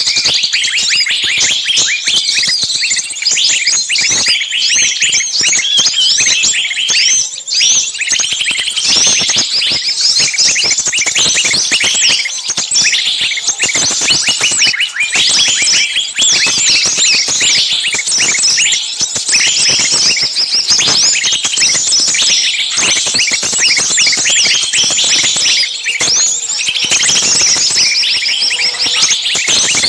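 Many small birds chirping together in a dense, continuous, high-pitched chorus of rapid overlapping calls.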